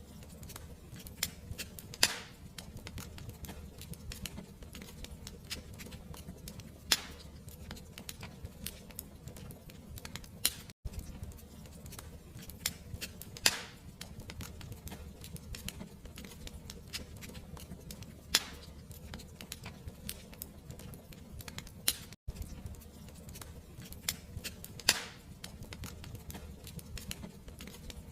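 Wood fire crackling: a steady stream of small crackles with a louder pop every few seconds, over a low, even rumble. The sound cuts out for an instant twice, where the recording loops.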